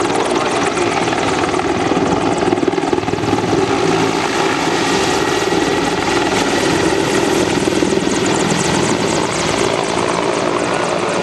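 Mil Mi-24 Hind E helicopter with twin Isotov turboshaft engines in flight, a loud steady rotor-and-turbine noise with a fast pulsing beat and no breaks.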